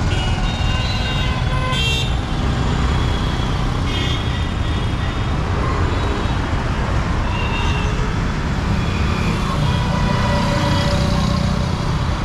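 Street traffic: engines running steadily, with short vehicle horn toots near the start, about four seconds in, and again near eight seconds.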